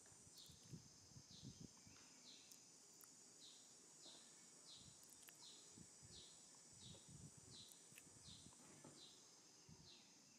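Faint outdoor ambience: a bird repeats a short falling chirp about twice a second over a steady high insect hum.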